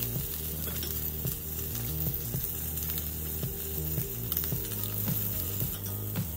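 Salmon head sizzling steadily in a hot cast-iron grill pan.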